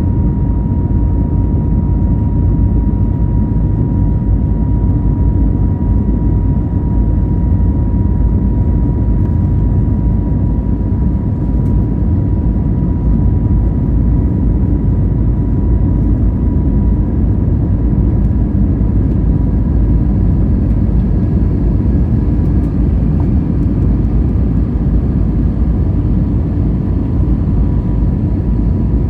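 Airbus A320neo cabin noise from a seat over the wing: a loud steady rumble from the engines at climb power with airflow, and a thin steady whine from the engine fan running through it.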